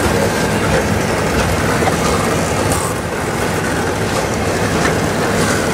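Double-stack intermodal container cars rolling past on steel wheels: a steady rumble of wheels on rail, with a few faint clicks.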